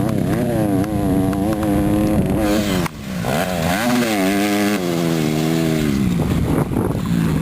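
150 cc dirt bike engine running, its pitch rising and falling as the revs change, with a brief drop in level about three seconds in before it picks up again and then settles lower.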